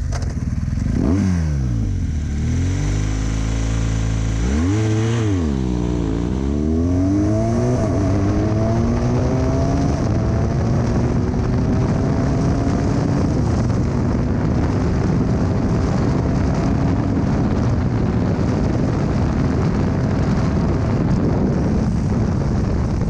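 BMW R 1200 GS Adventure's boxer twin at full-throttle acceleration: its revs climb and drop with each quick upshift a few times in the first six seconds, then climb steadily in a high gear. From about ten seconds in, wind rushing over the microphone at speed grows and mostly covers the engine.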